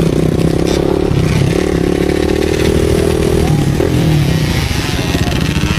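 Motorcycle engine running at fairly steady revs, its note changing briefly about three and a half seconds in.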